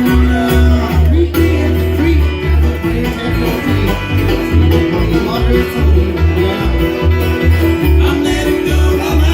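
Bluegrass band playing an instrumental passage: picked banjo and guitar over a steady bass beat.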